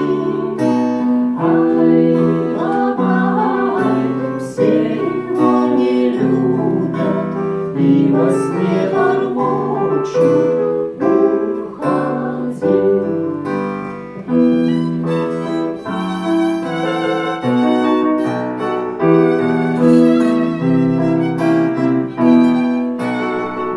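Instrumental passage of a slow folk lullaby: a violin plays the melody in long, wavering notes over piano accompaniment.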